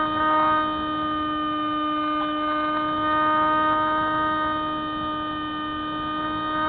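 Spyhawk FPV model plane's electric motor and propeller whining at a steady pitch with several overtones, the pitch edging up slightly near the end.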